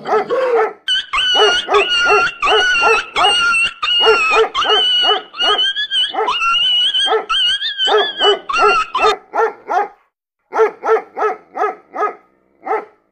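A dog barking in a fast, even series of about three barks a second, with a high, wavering whine running under the barks for most of the first stretch. After a brief pause the dog gives a few more barks.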